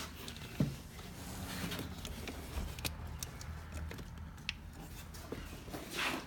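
Faint scattered clicks and rustles of hands handling small parts and tools during ATV repair work, over a low steady hum.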